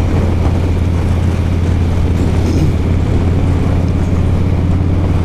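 2017 Harley-Davidson Dyna Street Bob's Stage 2 Twin Cam 103 V-twin running steadily at freeway cruise through TBR 2-into-1 pipes, with wind rushing over the helmet mic.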